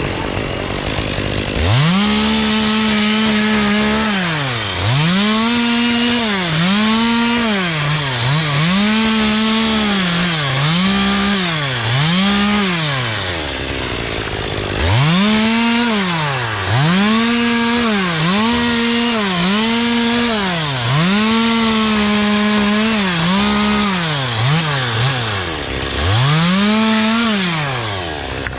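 Two-stroke chainsaw revved up to full throttle and let off again and again, about once a second, while trimming a Canary Island date palm. It idles at the start and again briefly around the middle, with a few quick blips near the end.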